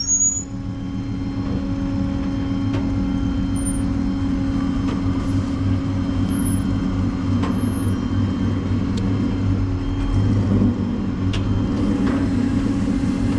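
Supercharged LS3 V8 running just above idle as the car creeps forward, a steady engine sound with a small rise in revs about ten seconds in. The throttle stays low because the sticking brake caliper is not dragging badly.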